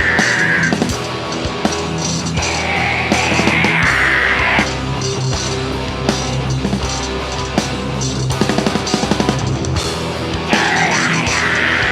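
Heavy metal band playing live at full volume, with the drum kit prominent and a quick run of drum hits around eight and a half to nine and a half seconds in.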